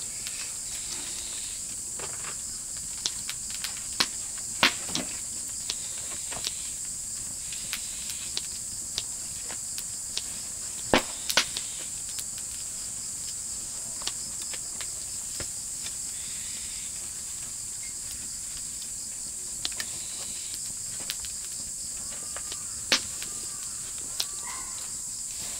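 Meat grilling over an oak-wood fire: irregular sharp pops and crackles over a steady high-pitched hiss.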